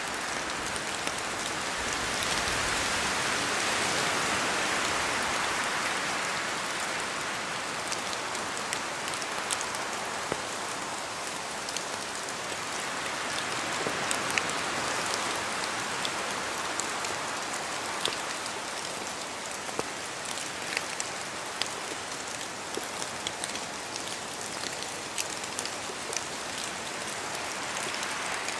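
Steady rain falling through forest trees, with scattered sharp drip ticks. The hiss swells and fades twice as wind moves through the leaves.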